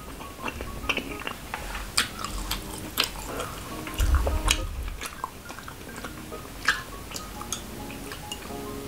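Close-up wet chewing and mouth clicks from a person eating balut, over soft background music. A dull low thud comes about four seconds in.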